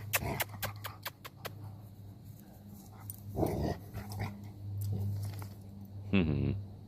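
Puppies scuffling, with a quick run of clicks in the first second or so and a short dog whimper near the end. A low steady hum runs underneath.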